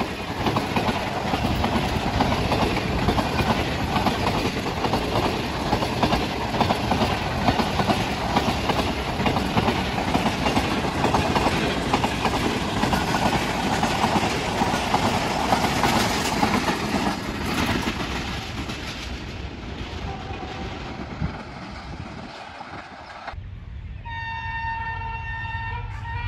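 Passenger coaches of a fast train rolling past on the rails, the wheels clattering over the rail joints in a dense clickety-clack, fading as the train moves away. About 23 s in, a diesel locomotive's multi-tone air horn starts and holds a steady chord: the horn of the approaching AGE 30 locomotive.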